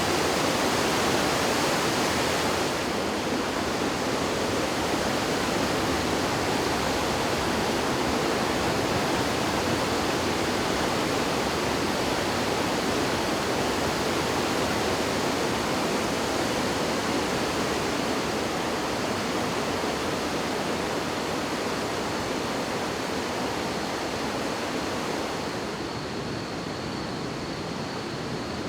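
Typhoon-swollen river in flood, its fast water rushing in a steady, dense wash of noise. A faint high steady tone comes in near the end.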